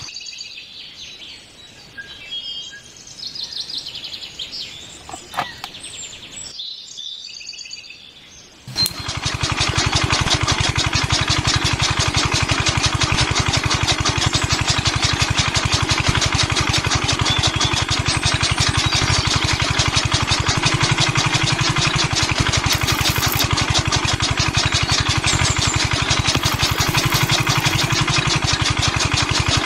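Birds chirping, then about nine seconds in a small electric motor switches on and runs steadily, with a fast even chatter, turning a belt-driven miniature chaff cutter.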